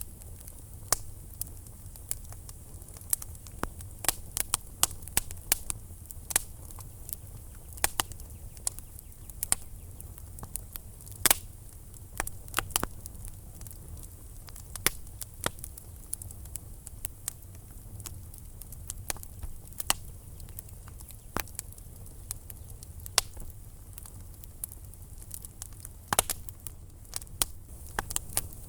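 Wood fire burning in a fireplace, crackling and popping at irregular intervals over a low, steady rumble of the flames.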